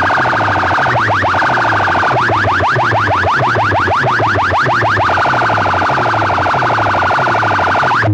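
Siren-style alarm effect played loud through a big loudspeaker sound system. A fast warbling tone gives way to quick rising whoops, about five a second, and then returns to the warble, all over a pulsing bass beat. It cuts off suddenly at the end.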